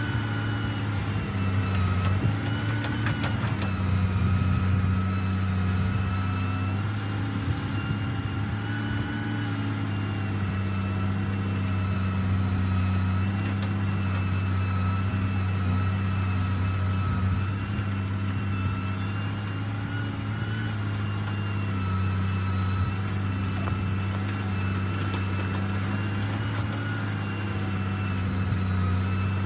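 Large diesel engine of heavy earthmoving machinery running steadily under a constant high whine. Its pitch dips and rises slightly a couple of times in the first ten seconds.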